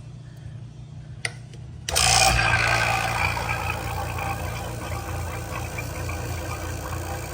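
A refrigeration vacuum pump switched on about two seconds in, after a short click, then running steadily while it pulls a vacuum on the refrigerator's sealed system.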